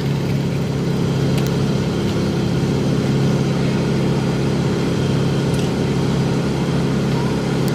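Heavy diesel engine of the recovery machinery running at a steady speed, an even, deep drone.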